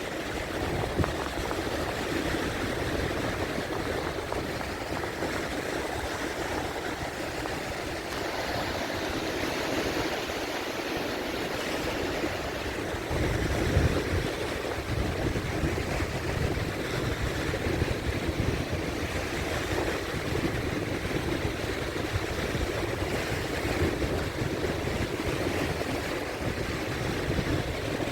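Sea waves washing in, a continuous rush of surf with a deeper rumble swelling up about halfway through.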